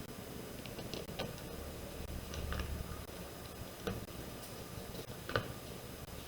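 Scattered light clicks and taps of paper and cardstock being handled during card assembly, irregular and unevenly spaced, the sharpest a little after five seconds in.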